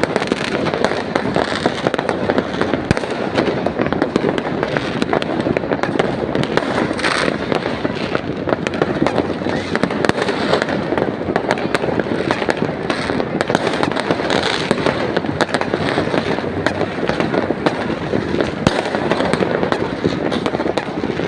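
Many fireworks going off at once: a continuous, dense barrage of bangs and crackles with no let-up.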